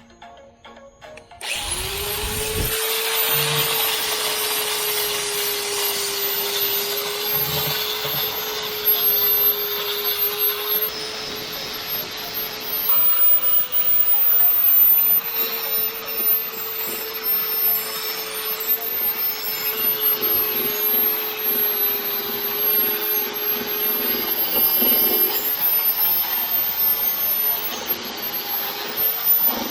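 Electric grinder spinning up about a second and a half in, then grinding gel coat and fiberglass off a boat transom's corners: a steady whine over gritty abrasive noise, the pitch sagging slightly and recovering as it is pressed in.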